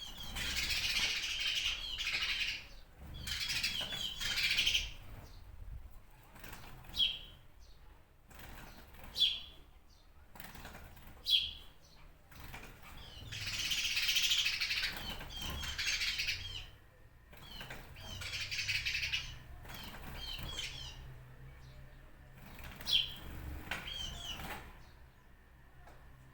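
Songbirds singing: phrases of quick, chirping notes lasting a second or two, repeated with short pauses, and single sharp, falling chirps in between.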